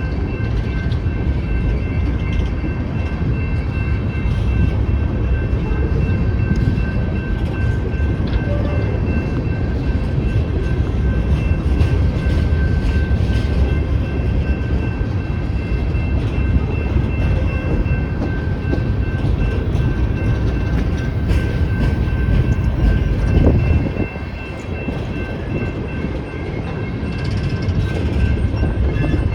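Loaded coal train cars rolling past a grade crossing: a heavy, steady rumble of wheels on rail, with a steady high ringing tone over it. The rumble eases somewhat about 24 seconds in.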